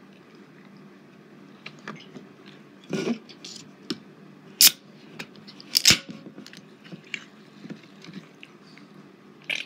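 A person chewing a mouthful of spicy chicken sandwich on a bread roll, with small wet mouth clicks and smacks. Two louder sharp clicks come about halfway through.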